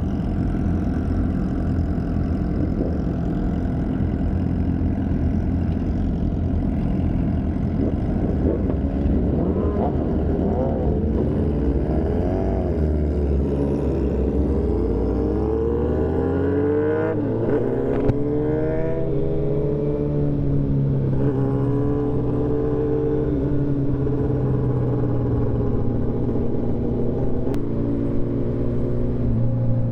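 Motorcycle engine heard from the rider's seat while riding, with low wind rumble. Halfway through the engine climbs in pitch as the bike accelerates, then settles to a steady cruise.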